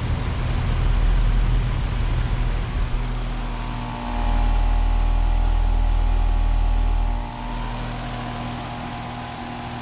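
Carrier Comfort heat pump outdoor unit running just after startup, its compressor and fan giving a steady hum. A louder low rumble swells for a few seconds in the middle. It sounds pretty nice.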